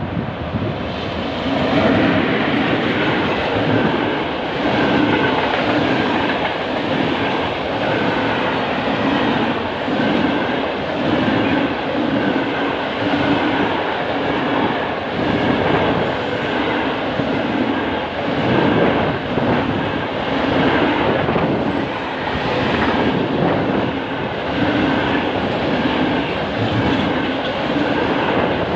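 Long freight train of container wagons passing close by, its wheels clattering over the rails in a regular rhythm about once a second.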